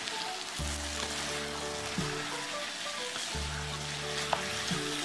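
Pork in a gochujang-based sauce sizzling in a pan over high heat as it is stir-fried with a wooden spatula, over background music with long held notes.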